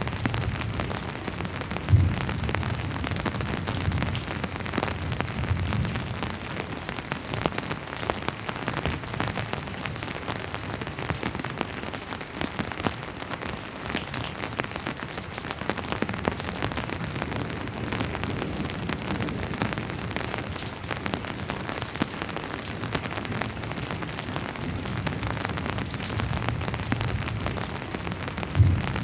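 Steady rain falling on a surface, a continuous even patter. Two short, loud low thuds come through, about two seconds in and again near the end.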